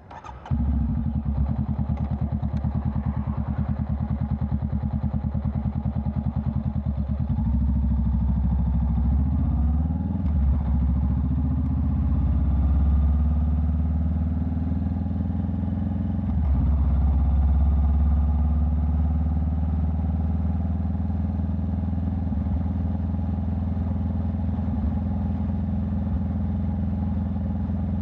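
Honda Rebel 500's parallel-twin engine running through a Vance & Hines exhaust under way, coming in suddenly about half a second in. The engine note shifts twice partway through, then runs steadily.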